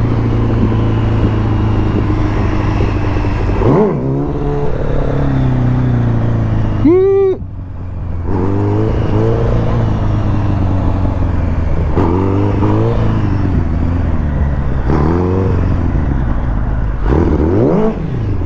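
Sport motorcycle engine revved up and let down again about six times, the pitch climbing and falling with each blip, over a steady running drone; a sharp high rev about seven seconds in is followed by a brief drop in level. Throttle blips of a rider practising wheelies.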